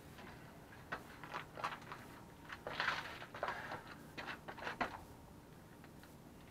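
Hand tools and loose metal parts being handled: a run of light clinks, knocks and short scrapes for about four seconds, then it stops.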